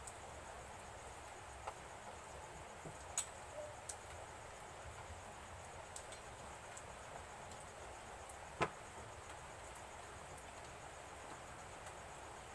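Faint steady hiss with a few short, light clicks, the loudest about two-thirds of the way through.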